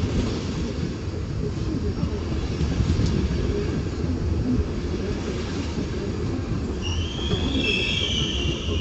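Passenger train moving along a station track with a steady low rumble. About seven seconds in, a high, wavering wheel squeal comes in.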